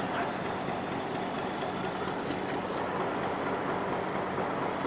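Meter-gauge passenger train rolling slowly over the points as it runs into the station: a steady rumble of coach wheels on track, with a low hum and scattered faint clicks.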